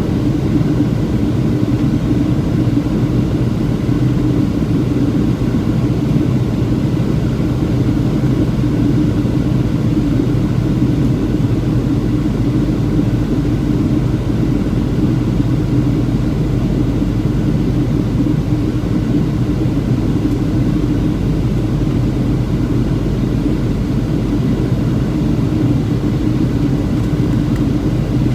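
Steady in-flight noise of a Boeing 737-700, its CFM56-7B engines and the airflow making a constant drone with a low hum that does not change.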